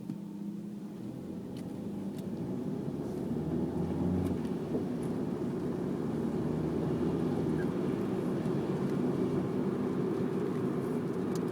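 Engine and road noise inside a moving car, growing louder over the first few seconds as it gathers speed, then holding steady.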